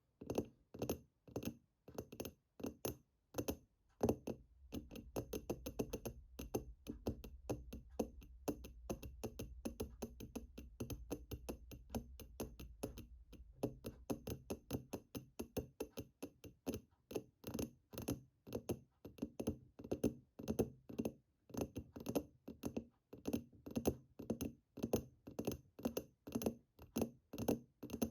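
Fingers tapping on a hard object: a rhythmic run of sharp clicks, a few a second. From about four seconds in to about fourteen seconds they come faster over a low hum.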